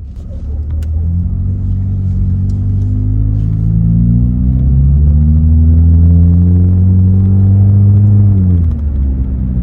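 Muffler-deleted 2017 Honda Accord's 2.4-litre four-cylinder, with its resonators still fitted, accelerating hard from a roll to 40 mph in eco mode, heard from inside the cabin with the windows up. The exhaust note rises steadily in pitch for several seconds, then drops away near the end as the throttle is lifted.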